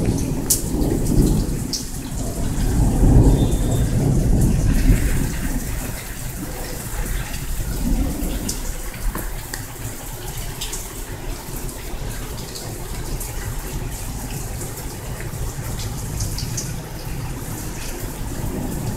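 Thunder rumbling low over the first five seconds, then fading, over steady rain with scattered drips.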